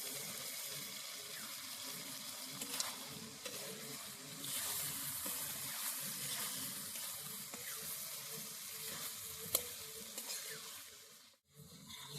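Cauliflower frying in hot oil and spices in a pan: a steady sizzle with scattered clicks of the spatula as it is stirred. The sizzle cuts off suddenly near the end.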